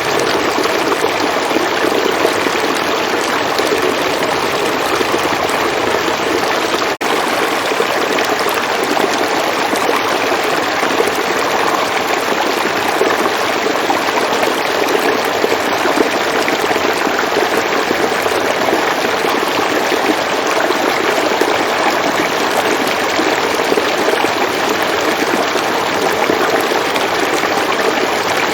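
River water flowing in a steady, even rush, with one brief dropout about seven seconds in.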